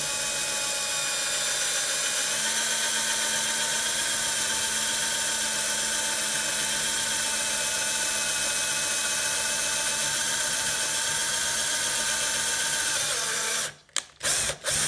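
Power drill with a keyless chuck running steadily with a whine while drilling into a vintage bicycle quick-release skewer. It stops about a second before the end, followed by a few short bursts of the trigger.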